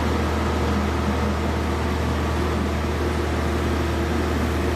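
Heavy machinery running steadily: a constant low engine hum with an even mechanical noise over it, holding the same pitch throughout.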